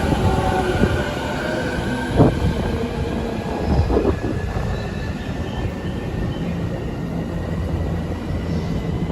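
Electric train running on rails: a steady low rumble with a faint whine that slowly rises in pitch, and two sharp knocks, about two and four seconds in.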